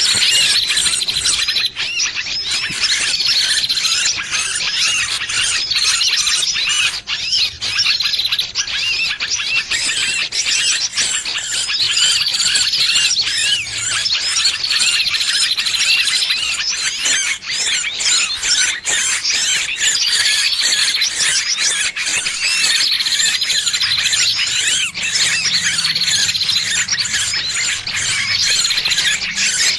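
Distress calls of a trapped bird: a continuous, dense run of shrill squeals and chirps, with a short falling note every couple of seconds. This is the alarm a caught bird gives, played as a lure to draw other birds in.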